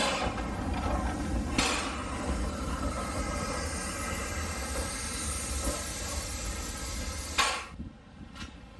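Steam locomotive 213901 venting a loud, steady hiss of steam, with two sharp metallic knocks at the start. The steam cuts off suddenly near the end.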